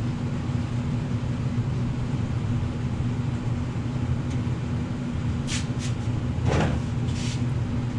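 Garage furnace running with a steady low hum. A few short clicks and rattles come past the middle.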